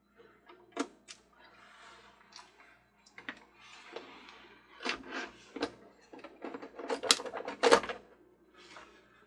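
Scattered clicks, clacks and rustling of small screws and plastic toy parts being handled on a workbench, with a run of louder clacks near the end.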